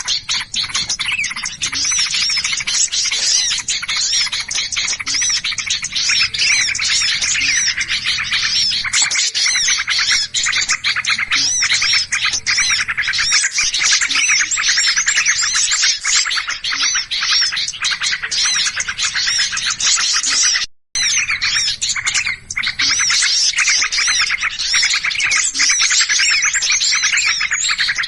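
Dense, unbroken chattering and chirping of many small birds making an agitated racket, as used in a bird-lure recording. The sound cuts out for a split second about two-thirds of the way through.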